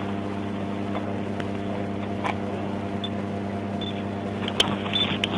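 Steady low mechanical hum with several even tones, and a few faint clicks near the end.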